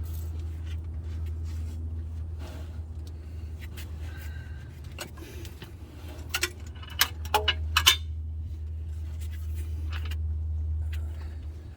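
Hand tools and metal parts clinking against each other as work on the transmission mounting wraps up, with a cluster of sharp clinks in the middle, over a steady low hum that stops near the end.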